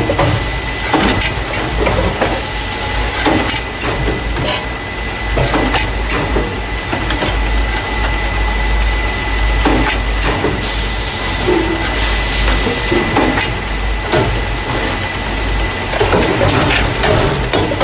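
Carton case packer running, loading paper juice and milk cartons into plastic crates: a steady low machine rumble under a constant high whine, with irregular clacks and knocks of the cartons and mechanism, and a few brief hisses.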